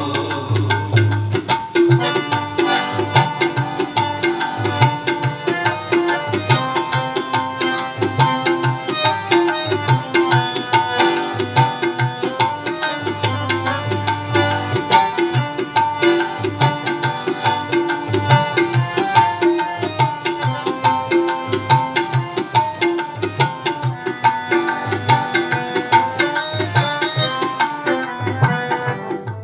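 Instrumental interlude of a Sikh devotional shabad: tabla keeping a steady rhythm under a held, chord-rich melodic accompaniment, with no singing.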